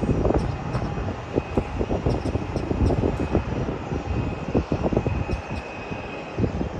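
A jet airliner's engines running with a faint steady high whine, under irregular wind gusts buffeting the phone's microphone.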